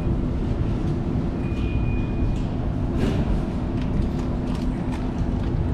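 Steady low rumble of vehicle noise with a constant hum, a brief high tone about one and a half seconds in, and a few light clicks.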